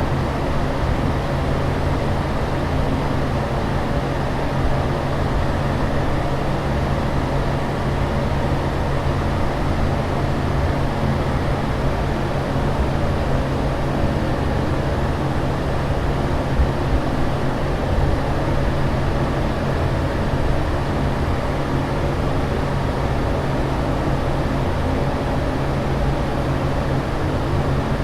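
Steady airliner cabin noise in flight: an even rushing drone of engine and airflow with a low, steady hum underneath, unchanging.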